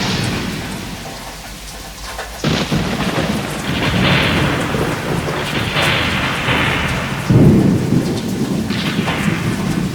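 Thunderstorm: steady rain with rolling thunder. A thunderclap breaks in suddenly about two and a half seconds in, and a louder, deeper boom comes about seven seconds in.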